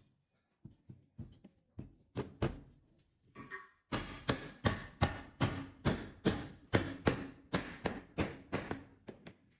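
Hammer or mallet blows in a woodworking shop: a few scattered strikes, then from about four seconds in a steady run of about four blows a second.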